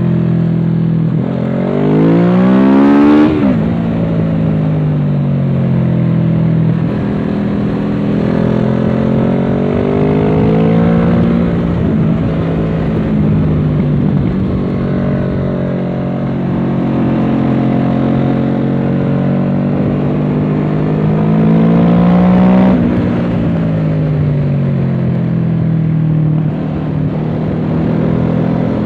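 Kawasaki Z650's parallel-twin engine through a Dominator aftermarket exhaust, heard onboard at speed. It revs up steeply a couple of seconds in and drops sharply at a gear change, then rises and falls with the throttle, climbing again to another sharp drop about three-quarters of the way through.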